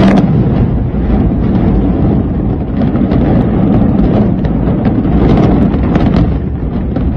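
A high-rise building being brought down by a controlled explosive demolition: a loud onset, then a continuous low rumble of the collapse with many sharp cracks through it, buffeting the phone microphone.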